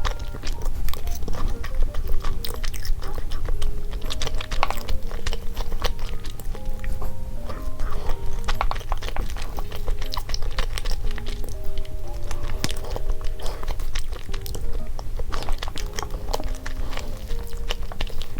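Close-miked chewing and mouth sounds of someone eating a chocolate crepe cake, many small wet clicks, over light, cute background music with a simple stepping melody.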